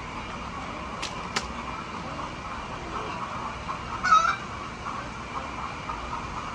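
A chicken's short, loud call about four seconds in, over a steady background din. Two sharp clicks about a second in.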